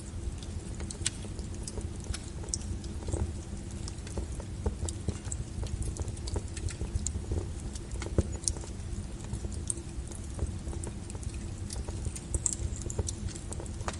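Wood fire burning, with a steady low rumble of the flames and irregular sharp crackles and pops from the burning logs.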